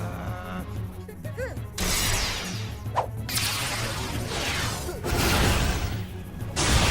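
Cartoon fight sound effects: several loud whooshes and hits, one after another, over action background music.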